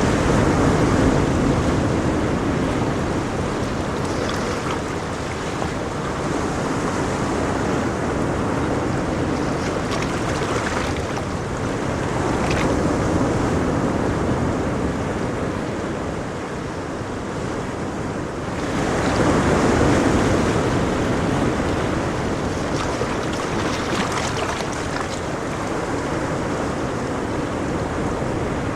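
Ocean waves breaking and washing on a shore, a steady surf that swells and eases every few seconds, with one stronger wave a little past the middle.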